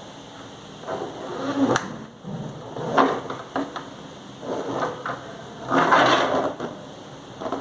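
Handling and unpacking noises: rustling in a few bursts, with a couple of sharp knocks about two and three seconds in.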